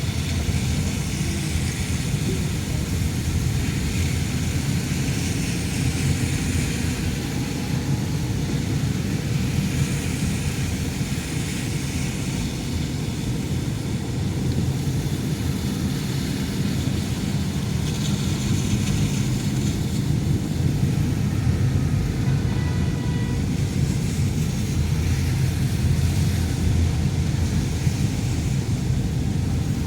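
Steady road and engine noise of a moving car, a low rumble with a hiss that swells and fades every few seconds.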